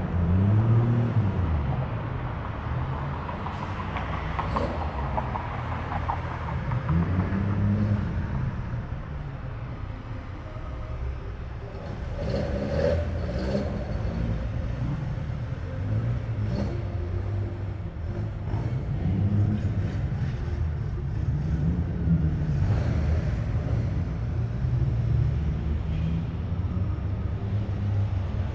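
Car engines running with a steady low exhaust rumble. Every few seconds an engine revs, its pitch swelling up and falling back, about four times.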